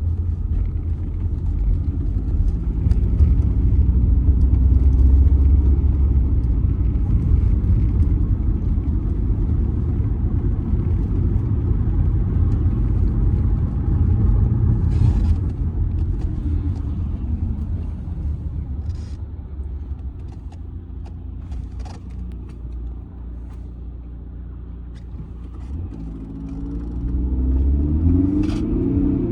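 Driving sound from a 2007 Audi A6 C6 with a 2.0 TDI four-cylinder diesel: a steady low rumble of engine and road noise, broken by a few short knocks. It eases off for a while, then near the end grows louder and rises in pitch as the car accelerates.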